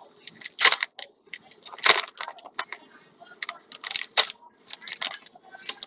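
Packaging being handled: irregular crinkling and rustling with sharp crackles and clicks, two louder crinkles about half a second and two seconds in.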